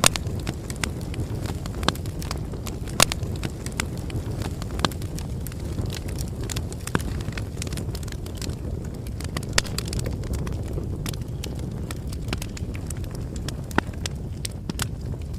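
Bonfire crackling: a steady low roar of burning wood with irregular sharp pops and snaps, a few louder than the rest.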